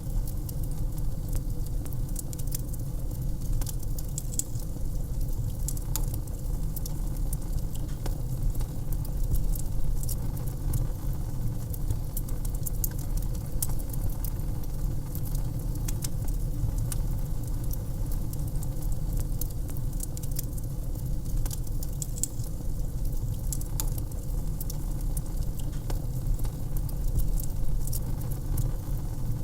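Wood fire crackling in a fireplace: frequent sharp snaps and pops scattered irregularly over a steady low rumble.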